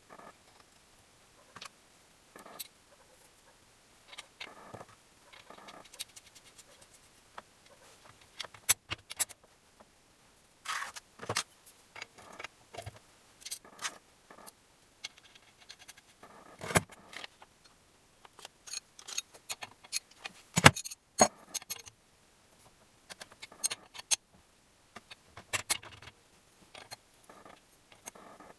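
Metal engine parts and hand tools clinking, tapping and scraping during engine assembly: an irregular run of sharp clicks and light scrapes, with a few louder knocks past the middle.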